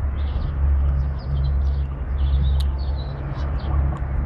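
Small birds chirping repeatedly with short high calls, over a steady low rumble.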